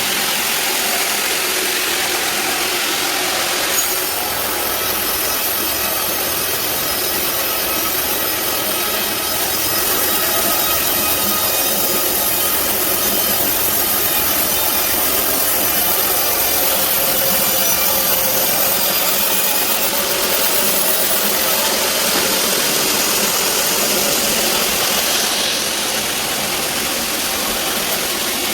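Band sawmill cutting through a large teak log, its motor running steadily. The sawing grows harsher about four seconds in and eases again near the end.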